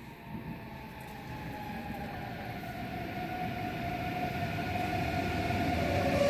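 ICE high-speed train approaching, its rumble growing steadily louder, with a faint whine that slowly falls in pitch.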